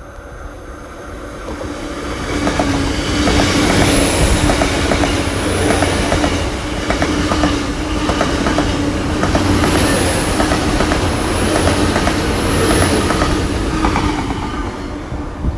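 Passenger train of two coupled Class 802 IET units passing through the station: a swelling rumble with a steady hum and a regular clickety-clack of wheels over rail joints. Short high wheel squeals come and go through the pass, and the sound fades near the end.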